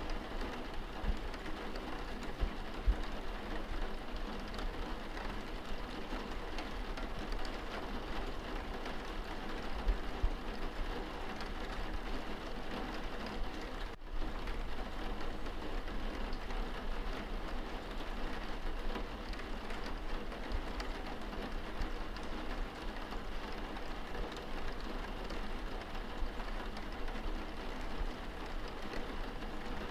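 Steady rain on window glass heard from indoors: an even hiss with scattered taps of individual drops.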